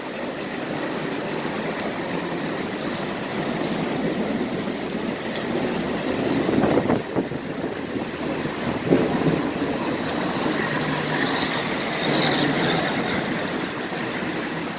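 Thunder rolling as a long, steady rumble that swells a couple of times, with rain falling.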